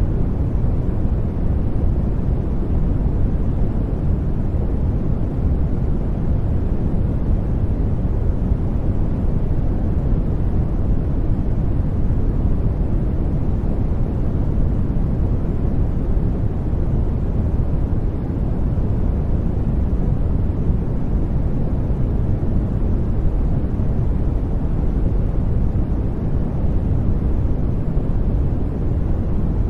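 Steady sleep-aid noise track: an even, deep rushing noise, heavier in the bass than in the treble, with no changes.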